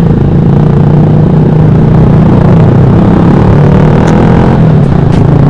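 Motorcycle engine running steadily through a loud exhaust.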